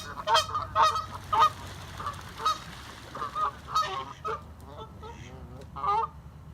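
A flock of geese honking, many short calls close together at first, then fewer and more spread out, with a clump of calls about four seconds in and another near the end.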